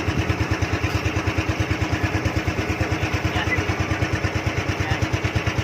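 Motorboat engine running steadily, with an even low putter of about eight beats a second.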